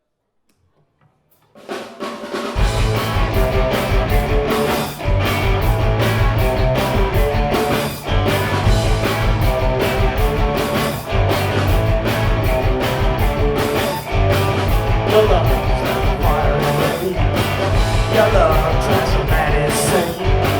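Rock band playing the instrumental intro of a song live, with drum kit and guitar. The band starts up about a second and a half in after a brief silence, the bass end coming in a second later.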